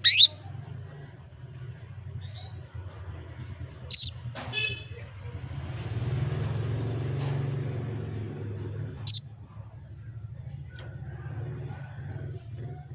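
Female canary in breeding condition calling for a male: three loud, sharp, sweeping chirps about four to five seconds apart, near the start, about four seconds in and about nine seconds in. Between them come short runs of soft, quick, high pips.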